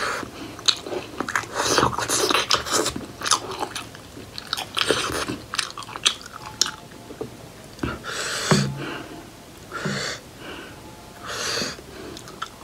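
Close-up mouth sounds of eating steamed buff momo: wet chewing and lip smacks, dense at first and then sparser, with a few longer breathy sounds in the second half.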